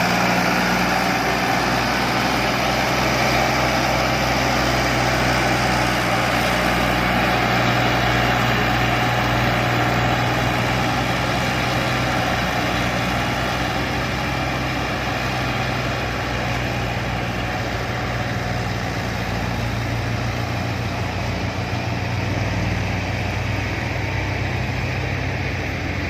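Massey Ferguson MF 240 tractor's three-cylinder diesel engine running steadily at a low, even speed with no revving, easing off slightly about halfway through.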